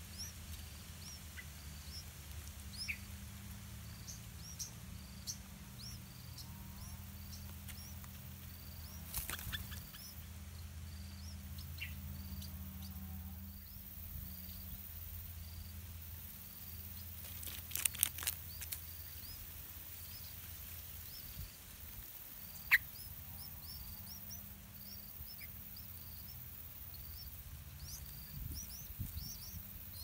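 Short high chirps of a small bird repeating about once a second over a steady low hum, with a few sharp clicks and rustles, the loudest click about two-thirds of the way in.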